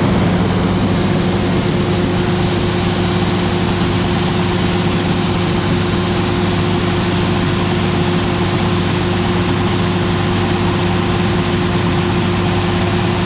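Heavy farm machinery engine running steadily at constant speed, a loud, even drone with fixed low tones that never change pitch.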